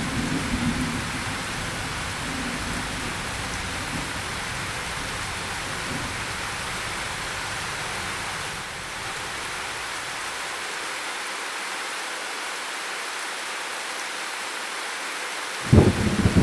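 Steady rain falling, with a low rumble of thunder fading away in the first second or so. Near the end a sudden loud clap of thunder breaks in.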